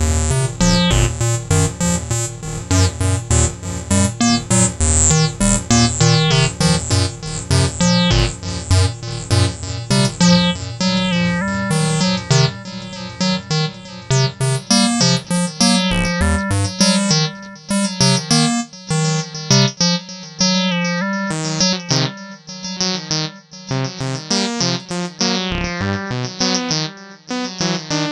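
Acid electronic music from the AcidMachine app: a fast sequenced synth line of rapid, shifting notes over a repeating bass pattern. The deepest bass drops out about 17 seconds in, leaving the higher bass line and the synth notes.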